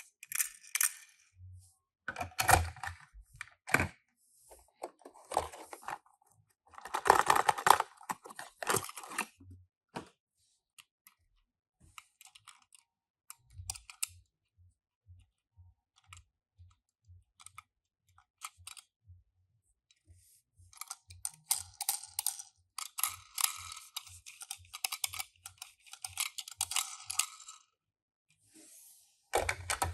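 Hands handling Tomica die-cast toy cars and their packaging: crinkling and rustling of plastic and cardboard with small clicks and taps, in bursts separated by pauses. Over the second half a faint low pulse repeats about twice a second.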